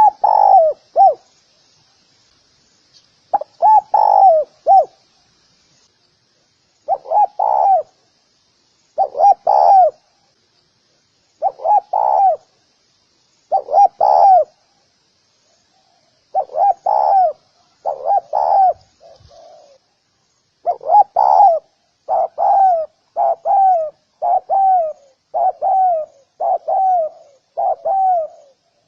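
Spotted dove cooing: short phrases of two or three coos, repeated about every two seconds, coming back to back in the last third. Faint high chirping runs in the background through the first two-thirds.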